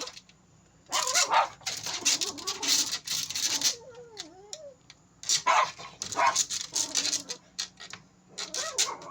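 A pet monkey giving harsh, agitated shrieks in quick bursts: a run of them, a short lull with faint wavering calls about four seconds in, then more shrieks. This is the alarm she raises at a frog.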